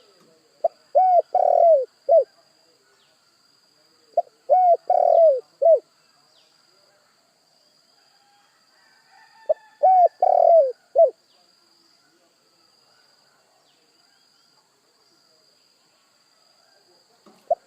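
Spotted dove cooing: three phrases of four or five short coos each, several seconds apart, with another phrase just starting at the end.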